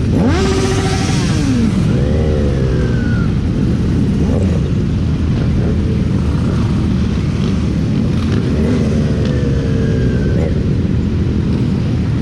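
Motorcycle engine on the move, its pitch falling over the first two seconds as it backs off, then briefly rising and easing off twice more, under a constant heavy rush of wind on the microphone.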